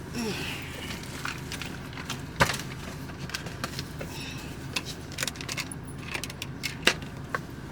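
Scattered sharp clicks and light rattles of small hard objects being handled, the loudest about two and a half seconds in and near the end, over a steady low hum.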